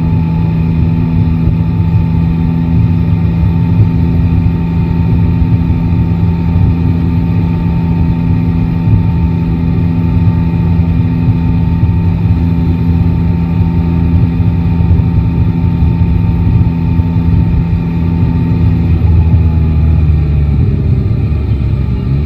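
Yamaha Tracer 9 GT motorcycle's three-cylinder engine running at a steady cruising pitch, with wind and road noise. Near the end the engine note falls as the bike slows.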